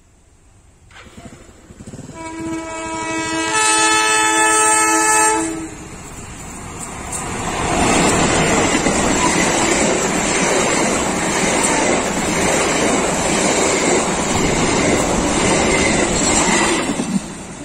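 A diesel locomotive hauling a passenger train sounds a long horn blast, growing louder as it nears. Then the locomotive and its coaches pass close by for about ten seconds: a loud, steady wheel-on-rail rumble and clatter that cuts off suddenly near the end.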